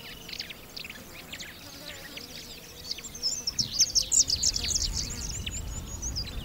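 Wild birds chirping and twittering, many quick high calls, sparse at first and growing denser and louder about halfway through, over a low rumbling background.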